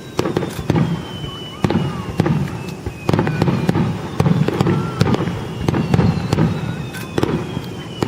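Aerial fireworks shells bursting in quick succession, a string of sharp booms with rumbling echo between them. A faint high tone slides slowly downward twice.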